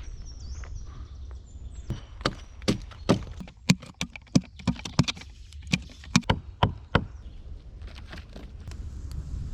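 Wood being chopped: about a dozen sharp knocks at an irregular pace of roughly two a second, over a steady low rumble.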